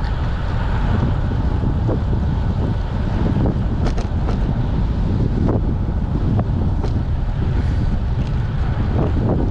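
Wind buffeting the microphone of a camera riding along on a moving bicycle, a steady low rumble with a few short clicks and ticks scattered through it.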